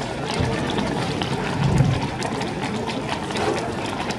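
Outdoor crowd murmur with scattered small clicks and knocks, a little louder briefly just under two seconds in.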